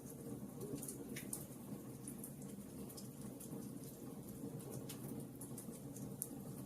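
Wood fire burning in a fireplace: a steady low rush of flame with small crackles and pops scattered through it, two of them a little sharper, about a second in and about five seconds in.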